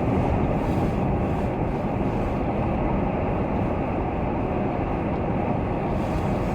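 Steady low road noise of a car being driven: tyres and engine heard from inside the cabin, even and unchanging.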